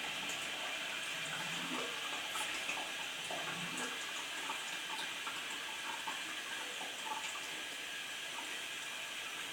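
Water running in a toilet: a steady hiss of flowing water with scattered small gurgles and drips.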